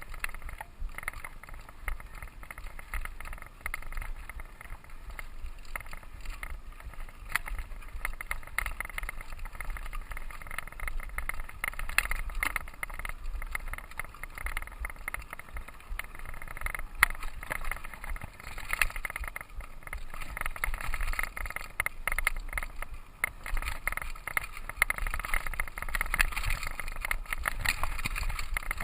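Mountain bike ridden along a dirt trail: a steady clatter of small knocks and rattles as it rolls over bumps, with low wind rumble on the microphone.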